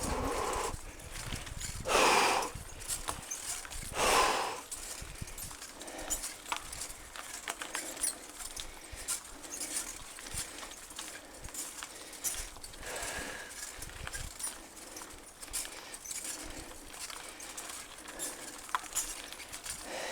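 Mountain bike riding over a rough trail: a running clatter of ticks and knocks from the bike and tyres on stones and roots. There are louder rushes of noise about two and four seconds in.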